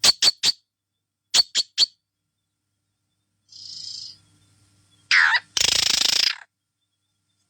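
Pet parrot calling: two quick runs of three short, high chirps, then a soft breathy sound, a falling screech and a loud, harsh squawk lasting about a second.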